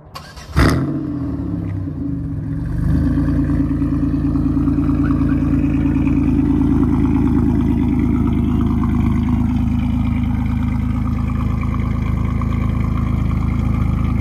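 Pontiac Grand Prix GT's V6 starting from behind its exhaust tips: it catches about half a second in with a sharp flare, then settles into a steady idle that grows louder about three seconds in and holds.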